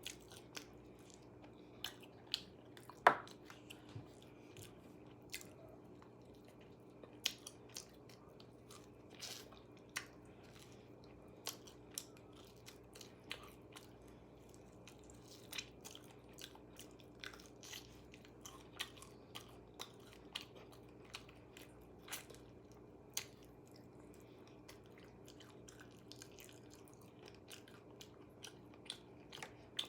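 A person eating KFC food close to the microphone: irregular crunching bites and chewing, with the loudest crunch about three seconds in, over a faint steady hum.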